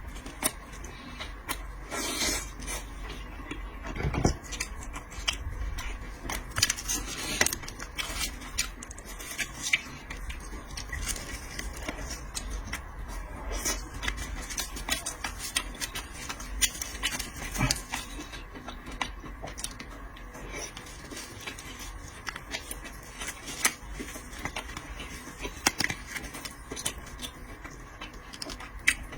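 Close-up mukbang eating sounds: scattered clicks, taps and scrapes of utensils, dishes and seafood shells, with chewing. A faint steady hum runs underneath.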